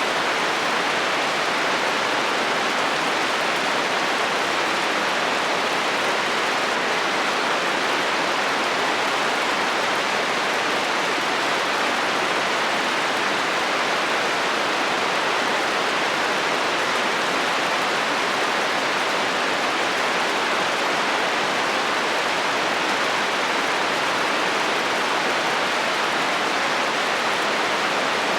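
Heavy rain falling steadily on a metal roof, an even hiss.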